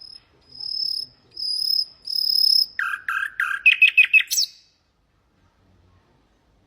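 Nightingale singing one song phrase: four long high whistled notes, then a fast run of lower notes ending in a quick high sweep.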